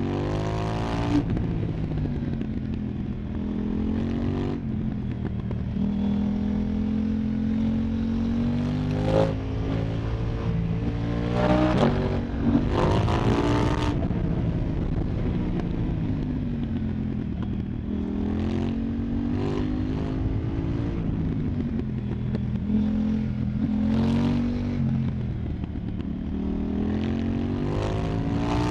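KTM Duke 990 parallel-twin engine through an Arrow Pro Race exhaust, ridden hard. It revs up sharply several times under acceleration, then drops away in long falling notes off the throttle.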